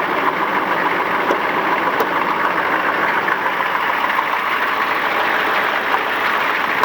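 1993 Chevrolet 6.5 L turbo-diesel V8 idling steadily on a cold start, with an even diesel clatter.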